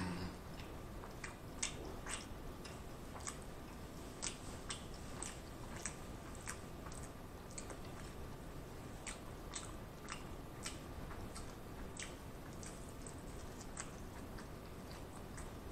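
A person chewing a mouthful of Big Mac close to the microphone: soft, wet mouth and lip smacks in an irregular run of short clicks, roughly one or two a second.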